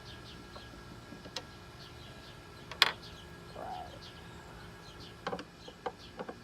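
Birds chirping over and over in short falling notes, with one sharp click about three seconds in and a few lighter clicks near the end.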